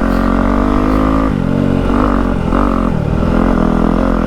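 Yamaha WR250F's single-cylinder four-stroke engine running loud through a YZ slip-on exhaust as the bike is ridden. The note is steady at first, then rises and falls a few times in the middle as the throttle is rolled off and on, then steadies again.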